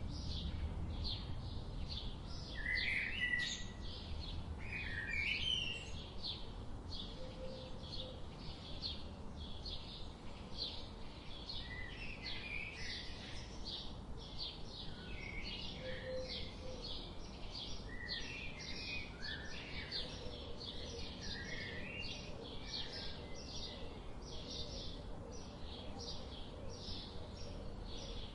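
Forest birds chirping: one bird repeats a short high chirp about twice a second throughout while others call in between, the loudest calls a few seconds in. There is a low background rumble under them.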